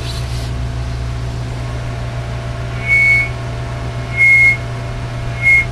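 CB radio audio on the test bench: a steady low hum, broken by three short high-pitched beeps roughly a second and a quarter apart.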